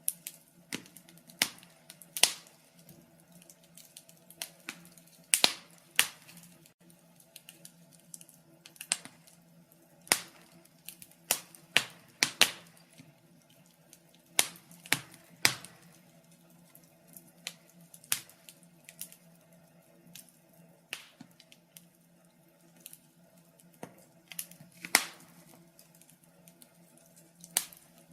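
Fire crackling: irregular sharp pops and snaps, sometimes several close together, with short gaps between, over a faint steady low hum.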